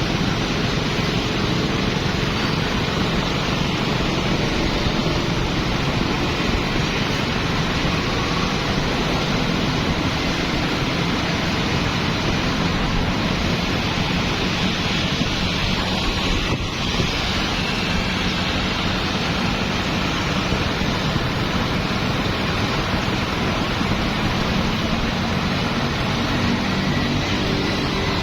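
Dense, steady street traffic of motorbikes, cars and tuk-tuks: engines and tyre noise under an even hiss.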